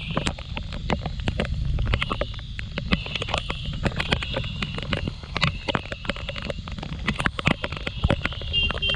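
Onboard sound of a Kymco Like 125 scooter ridden in the rain: a steady low rumble of the single-cylinder engine, tyres and wind, broken by many sharp taps.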